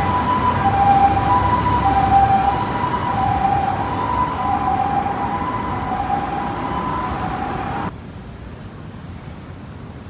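Two-tone emergency siren switching back and forth between a high and a low note, the pi-po pattern of a Japanese ambulance, over traffic noise. It cuts off suddenly about eight seconds in, leaving quieter road noise.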